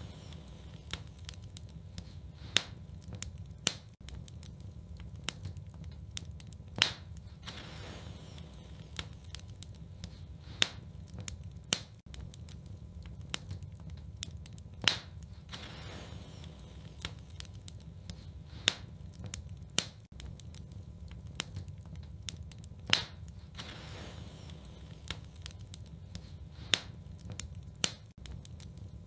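Wood fire in a fireplace crackling: sharp, irregular pops and snaps over a steady low rumble.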